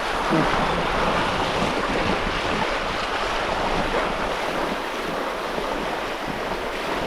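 Water rushing and splashing along a sailboat's hull as it sails with the engine off, with wind buffeting the microphone. A steady noise that eases slightly near the end.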